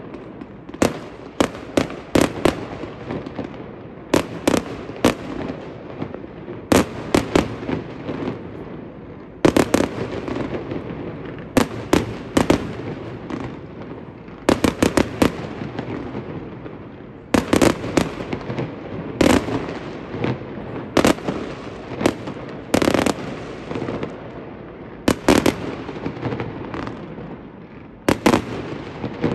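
Fireworks display: a steady run of sharp bangs from bursting aerial shells, often in quick clusters of two to four, over a continuous rumbling echo.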